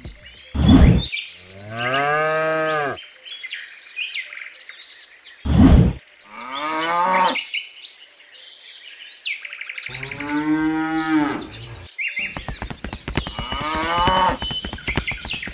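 Cow mooing: four long moos a few seconds apart. A short loud thud comes just before each of the first two, and a rapid run of clicking sounds under the last.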